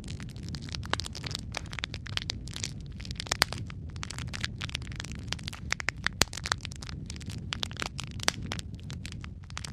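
Wood fire crackling and popping in a fireplace: many irregular sharp snaps over a steady low rumble of the flames.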